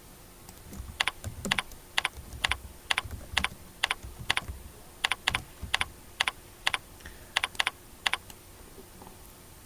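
Computer keyboard being typed on at a slow, even pace, about two keystrokes a second, stopping about a second and a half before the end.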